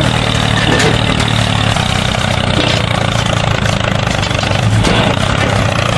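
Engine running steadily at idle, a constant low hum.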